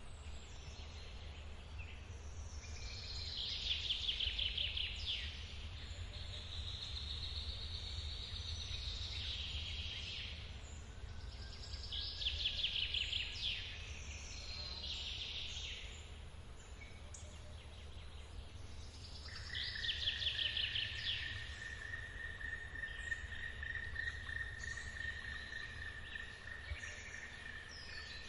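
Forest birds singing repeated high trills, one burst about every eight seconds, over a steady low rumble of the waterfall. About two-thirds of the way through, a steady high tone starts and holds.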